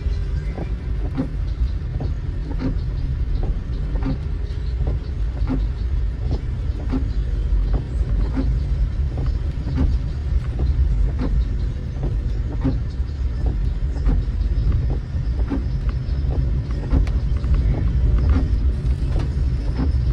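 Steady low road and engine rumble heard inside a moving car driving in rain. A soft knock from the windscreen wipers repeats evenly about every one and a half seconds.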